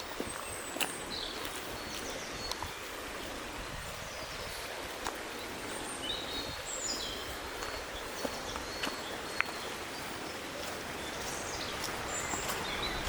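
Outdoor ambience: a steady hiss with short, high bird chirps and a few falling whistled notes now and then, and scattered sharp clicks.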